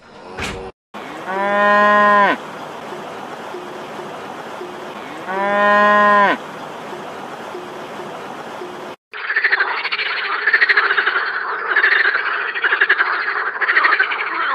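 Cows mooing twice, two long calls about four seconds apart, over the steady rush of a shallow stream. From about nine seconds in, a frog croaks in a fast pulsing run that lasts to the end.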